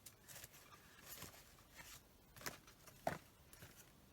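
Faint rustling and light taps of paper and card being handled, a handful of short brief sounds, the loudest about three seconds in.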